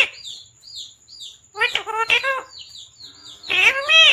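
Pet parrot chirping in short, repeated high chirps, about three a second. Two longer, wavering voice-like calls come in, one around the middle and one near the end.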